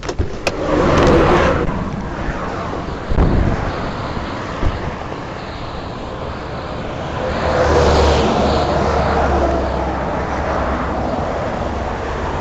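Highway traffic running past a stopped patrol car, with two vehicles swelling by, one about a second in and one around eight seconds, under a steady low road rumble. A short thump comes about three seconds in.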